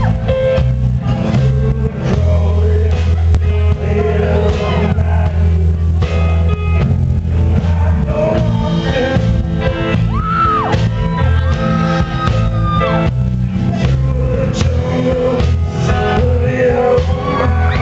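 Rock band playing with a sung lead vocal over a heavy, sustained bass line and cymbal strokes.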